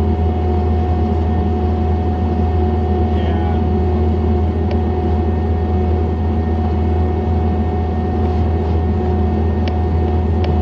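John Deere 317 skid steer loader's diesel engine running at a steady speed: a deep, unchanging drone with a steady whine above it and a few faint clicks.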